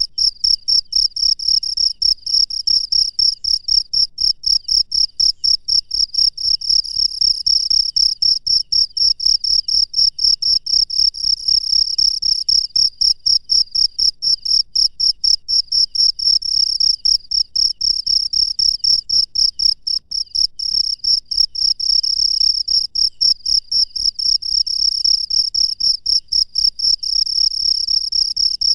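A cricket chirping close by: a loud, high-pitched chirp repeated evenly several times a second, without a break.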